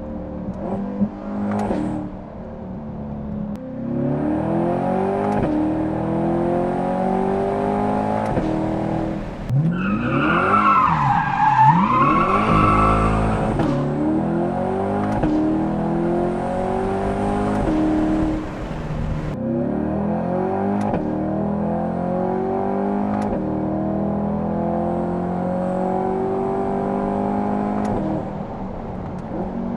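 Cabin sound of a C8 Corvette V8 through a titanium catback exhaust with its valves open, accelerating hard in several runs. The pitch climbs through each gear and drops at each shift, with a few sharp pops. About ten seconds in, a louder wavering, higher-pitched squeal rises and falls for a couple of seconds.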